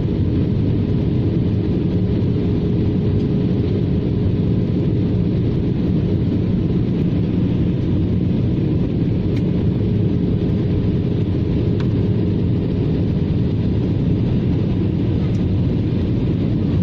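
Steady cabin noise inside an Airbus A320-214 in flight: a constant rush of airflow with the drone of its CFM56 engines and a faint steady hum.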